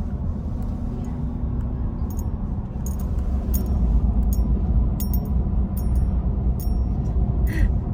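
Cabin noise of a Ford F-150 pickup driving along the road: a steady low rumble of engine and tyres, with scattered light clinks and rattles starting about two seconds in.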